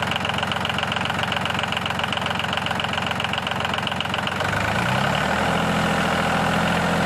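Tractor's diesel engine running, powering a borewell pump to draw water, with a fast steady firing pulse. About four and a half seconds in, the engine speeds up slightly and settles at a higher, steady note.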